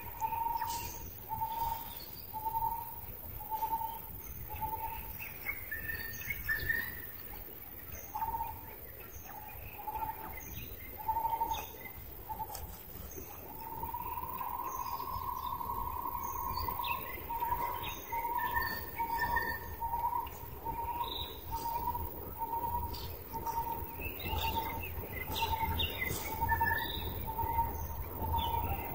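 Outdoor birdsong: a single-pitched whistled call repeated about once a second, with one long held note around the middle, over scattered short higher chirps from other birds.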